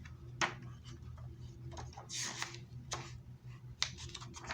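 A few sharp clicks and a brief rustle, like handling noise, over a low steady hum.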